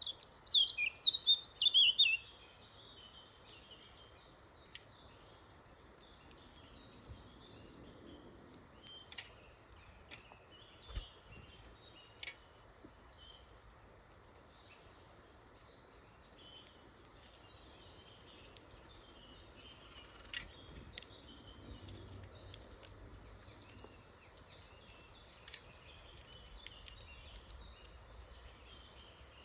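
Songbird singing a loud phrase of quick high notes for about two seconds at the start, then faint scattered chirps and calls from small woodland birds over a steady background hiss.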